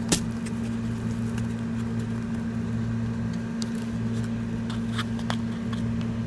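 Steady low electrical hum with a sharp click just after the start and a few faint clicks later on, from handling the flash drive and its packaging.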